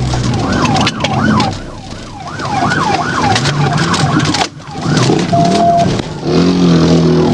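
Police car siren on a fast yelp, its pitch sweeping up and down several times a second, over the patrol car's engine, with a short steady beep about five seconds in.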